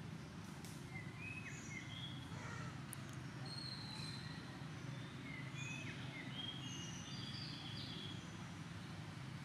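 Birds calling with scattered short, high chirps and whistles over a steady low background rumble.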